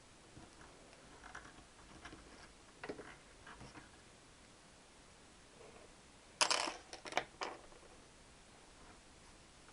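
Small scattered clicks and scrapes of a hand pick tool working on a small engine part, with a sharper cluster of three or four metallic clicks about six and a half seconds in.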